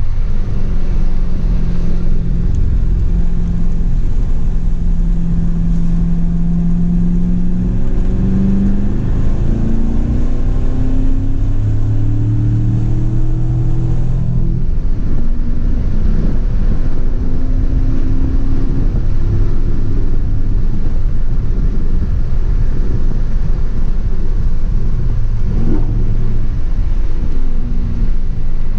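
C7 Corvette Grand Sport's 6.2-litre V8 heard from inside the cabin while driving on a wet track. The engine note holds steady, then climbs for several seconds as the car accelerates and drops away about halfway through as it lifts off, over a steady low rumble.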